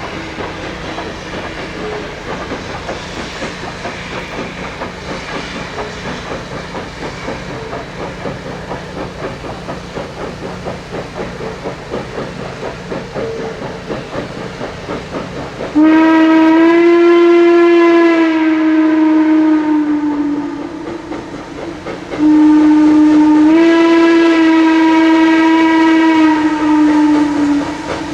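Chesapeake & Ohio 1309, a 2-6-6-2 Mallet steam locomotive, running with a steady rhythmic beat, then sounding its steam whistle in two long blasts. Each blast bends up slightly in pitch just after it starts and drops back near its end.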